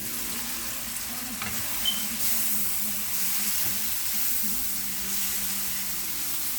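Saltfish, chicken feet and other meats frying in a pot, a steady sizzle, with a sharp knock about two seconds in.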